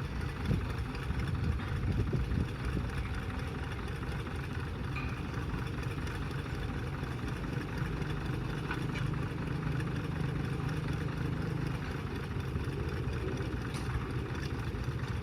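An engine idling steadily, a low, even rumble.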